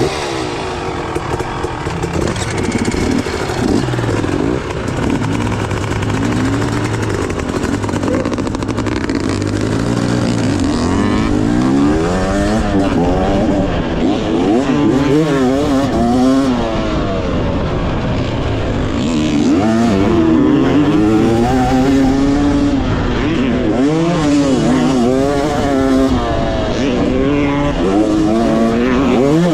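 Dirt bike engine being ridden hard round a motocross track, its pitch rising and falling over and over as the rider opens and closes the throttle through the turns and jumps.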